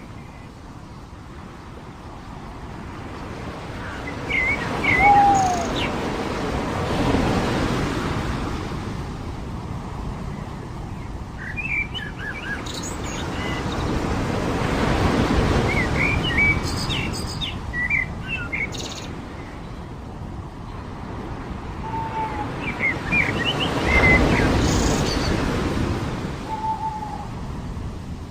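Waves washing onto a beach, the surf swelling and fading about every nine seconds, with scattered short bird chirps and a few brief curved calls over it.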